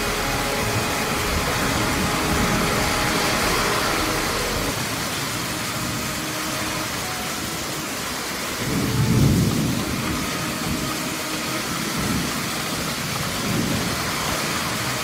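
Very heavy rain falling steadily, with streams of runoff pouring off a roof edge and splashing onto wet concrete. A low rumble swells up about nine seconds in, with weaker ones later.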